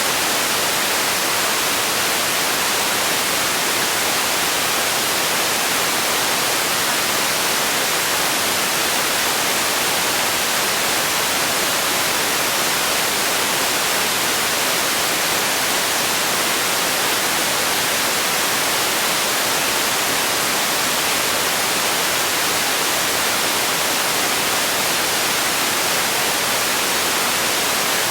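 Steady generated white noise for sleep: an even, unchanging hiss, brightest in the treble.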